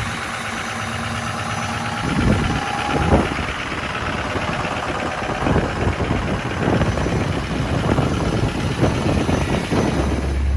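A tuned and deleted 6.0 Powerstroke V8 turbo-diesel idling cold, just started after its fuel had gelled, with irregular knocks through the idle. A steady whine stops about three seconds in, and a low hum comes in near the end.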